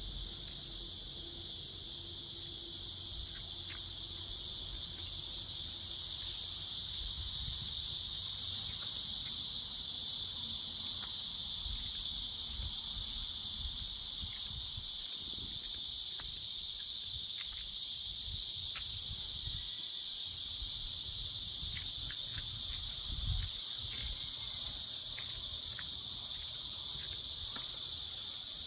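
Dense chorus of insects: a steady, unbroken high-pitched buzzing hiss, with irregular low rumbles on the microphone underneath.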